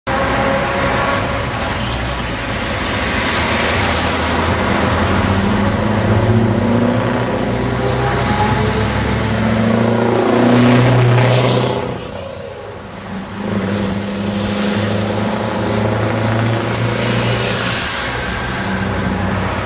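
Scania 143M 420's 14-litre V8 diesel running loud as the truck drives by. It is loudest about ten to eleven seconds in, drops briefly around twelve seconds, then pulls steadily again.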